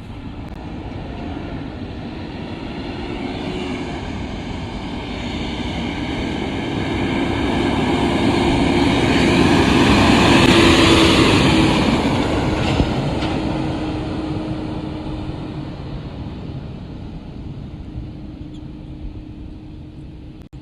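Mack Granite roll-off truck's diesel engine and tyres as it drives past, growing louder to a peak about ten seconds in, then fading away.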